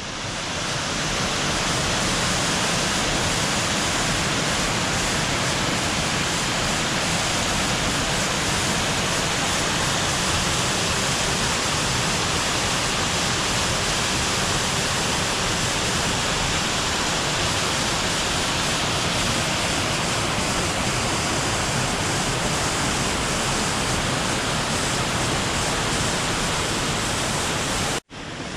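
Waterfall rushing: a steady, dense roar of falling water with no change in level, briefly cut off near the end.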